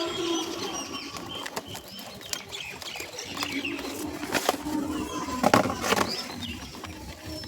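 Birds chirping in short repeated calls, with a few sharp knocks or clicks in the second half, the loudest about five and a half seconds in.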